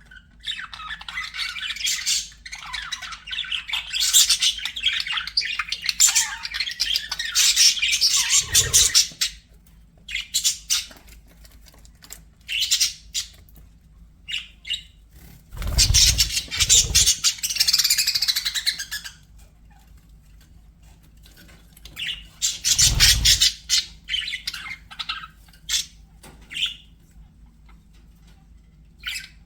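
Budgerigars chattering and warbling with squawks in busy stretches, broken by pauses and scattered single chirps. A few low thuds come in during the busiest stretches.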